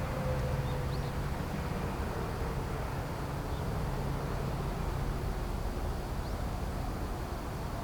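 Jet airliner engines: a steady low rumble with a slowly falling whine that fades out over the first couple of seconds.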